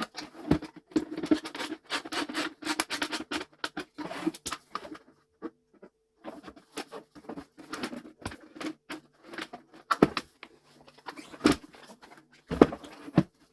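Hands handling and fitting plastic parts of a vacuum cleaner: a run of scraping, rustling and small clicks, with a few sharper knocks from about ten seconds in.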